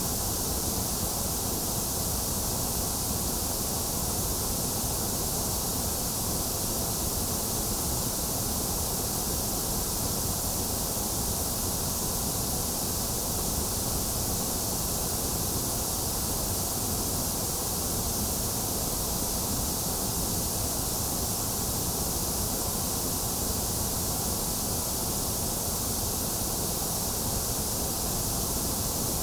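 Steady, unchanging white noise for baby sleep: an even hiss with no rhythm or events, bright in the treble and full in the bass, with a slightly hollow middle.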